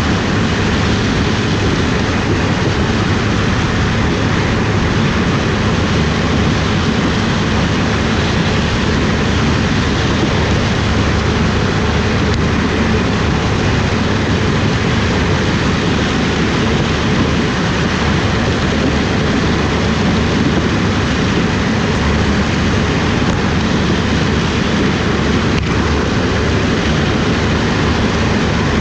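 Heavy harvest machinery running steadily: a loud, even engine and mechanical drone with a strong low rumble that does not change.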